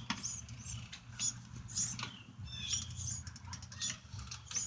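Small birds chirping: a quick, uneven run of short, high chirps over a low steady rumble.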